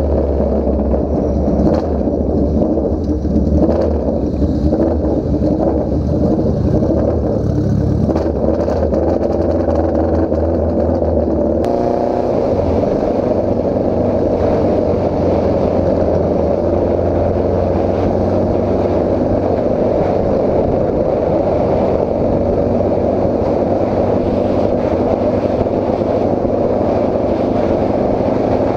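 A Honda CB750 cafe racer's inline-four engine runs as the bike is ridden on the road, its note rising and falling with the throttle. About twelve seconds in the sound changes abruptly to a steadier engine note.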